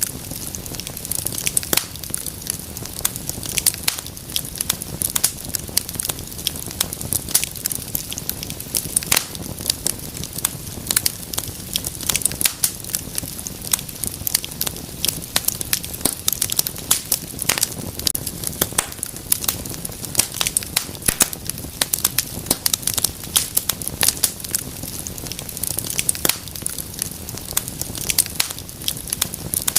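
Wood fire burning in a fireplace: a constant run of sharp, irregular crackles and pops over a soft low rumble of flame.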